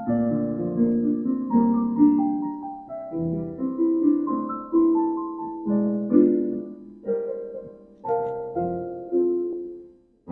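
Slow instrumental introduction on piano: notes and chords struck and left to ring, fading out just before the end.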